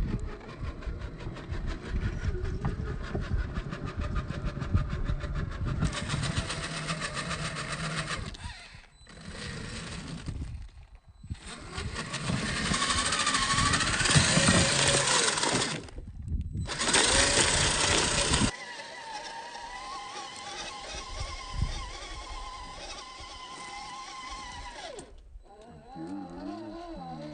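Electric motors and geared drivetrains of 1/10-scale RC rock-crawler trucks whining and grinding as they crawl. The audio is slowed to half speed, so it sounds low, and it comes in several separate stretches with abrupt cuts between them.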